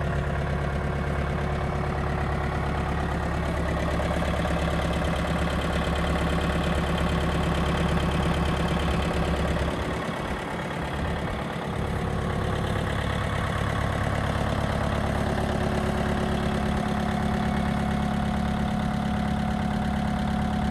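Mitsubishi MT27 compact tractor's four-cylinder diesel engine running steadily. About halfway through it briefly dips in level, then runs on with a slightly changed note.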